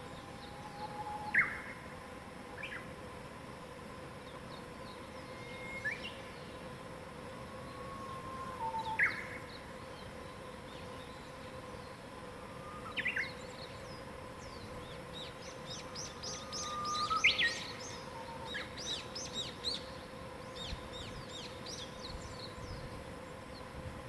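Wild songbirds singing. One bird repeats a short song about every eight seconds, a low whistle followed by a sharp higher note, and another bird twitters rapidly in a quick run of high chirps around the middle. A faint steady hum runs underneath.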